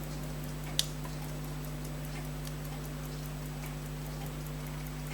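Rapid, even ticking of a running timepiece over a steady electrical hum, with one sharp click about a second in.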